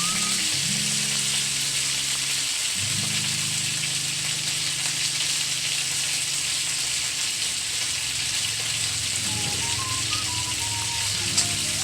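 Deboned chicken leg quarters sizzling steadily as they fry in butter in a pan, with background music over it and one short click near the end.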